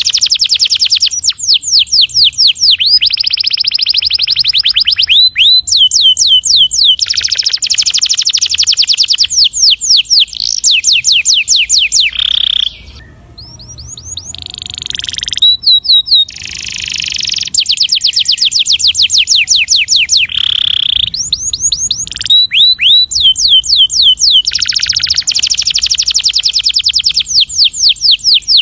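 Domestic canary singing a long rolling song: fast series of repeated falling chirps alternating with dense rolled trills, with a brief pause about 13 seconds in.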